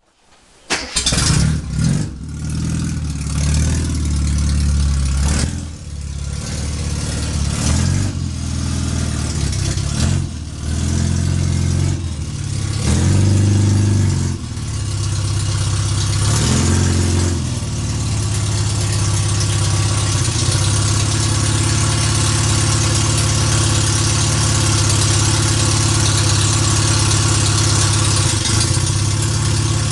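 A freshly rebuilt 1330 cc Austin Mini A-series engine catches about a second in and is revved up and down several times. From about 18 s it settles into a steady idle.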